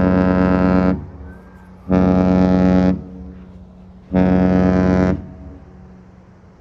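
An Oasis-class Royal Caribbean cruise ship's horn sounding three short blasts of about a second each, one steady deep chord per blast, trading horn signals with a second Oasis-class ship.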